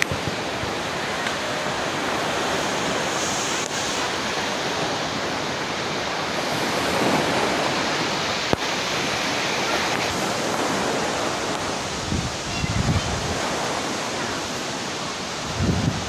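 Waterfall rushing steadily. Wind buffets the microphone in low gusts about twelve seconds in and again near the end.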